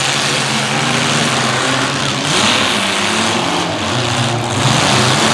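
Several demolition derby midsize car engines revving at once, their pitch rising and falling as the cars are driven hard.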